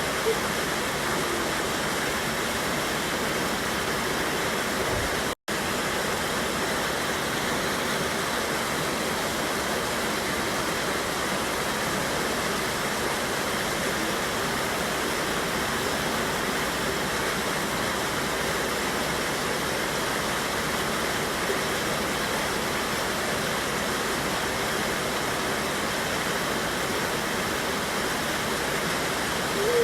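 Steady rushing of a river waterfall, water pouring and churning without letup. About five seconds in the sound cuts out completely for a split second.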